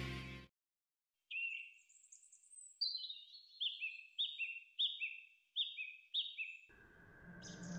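Music stops abruptly. A bird then sings a run of short, high, down-slurred chirps, about two a second, over silence. Music fades back in near the end.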